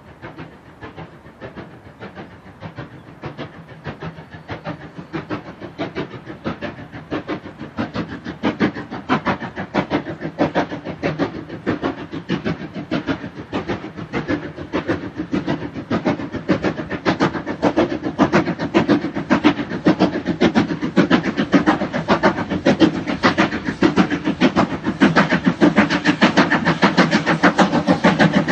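Steam locomotive working under steam, its exhaust beats coming in an even rhythm and growing steadily louder as it draws closer.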